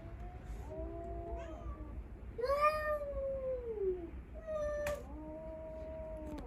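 Cats yowling in a territorial standoff: three long, drawn-out threat calls, the loudest in the middle rising and then falling away. A sharp click about five seconds in.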